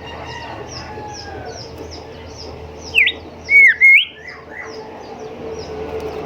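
Golden whistler singing: a short phrase of loud, clear whistles about halfway through, rising and falling and ending with an upward flick. Behind it, a faint run of short high chirps repeats steadily and a low hum continues.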